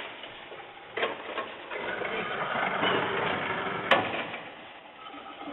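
Garbage truck working, a run of mechanical noise broken by two sharp clanks, one about a second in and one just before four seconds.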